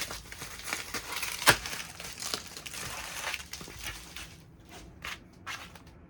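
Packaging being crinkled and torn by hand as it is pulled off a set of handlebars. There is irregular rustling with sharp crackles, the loudest about a second and a half in, thinning to scattered crackles near the end.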